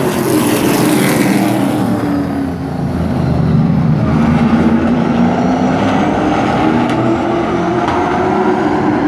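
Race truck engine running hard at racing speed. Its pitch drops about two seconds in, as if the driver is lifting for a corner, then climbs again as it accelerates.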